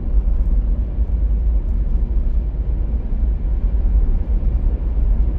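Steady low rumble of a moving car heard from inside the cabin: road and engine noise, with no distinct events.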